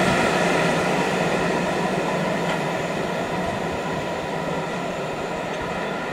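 Wheels and wagons of a freight train of steel-coil wagons running on the rails as it moves away, a steady rail rumble fading slowly.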